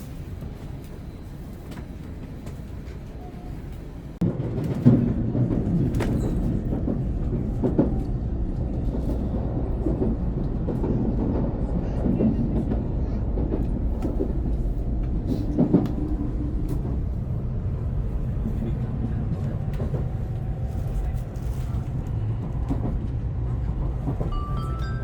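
Inside a Shinkansen bullet-train carriage: the low, steady rumble of the train running, which gets much louder about four seconds in, with scattered clicks and knocks from the running gear over the track.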